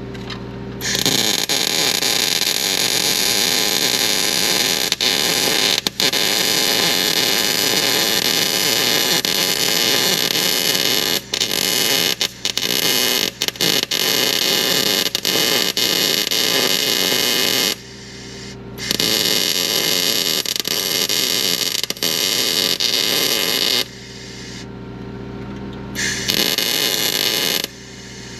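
Arc welding on the thin steel of a snowblower fan shroud: a steady, loud crackling hiss in three long beads that start and stop abruptly, with a steady low hum underneath.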